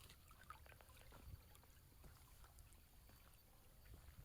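Near silence: faint outdoor ambience with a low rumble and a few soft scattered ticks.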